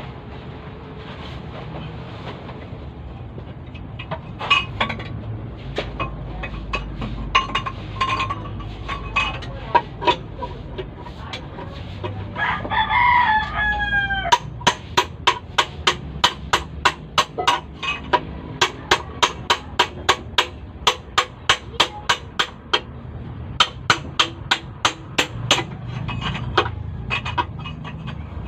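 Scattered knocks, then a rooster crows once about halfway through. Right after it come steady hammer blows, about three a second, during the teardown of an Isuzu 4JB1 engine for a sleeve replacement.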